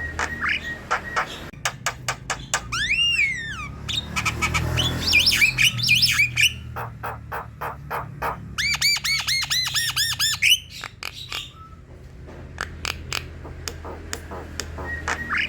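Javan myna singing: a run of sharp clicks broken by a falling whistle, harsh squawking notes, and a fast string of repeated chirps.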